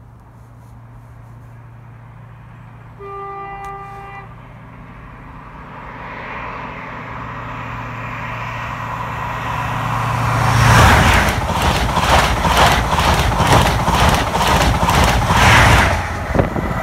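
An approaching train sounds its horn once, a single note about a second long. It then passes at speed: a rush that builds steadily, then loud, rhythmic clatter of its wheels for about five seconds, fading away near the end.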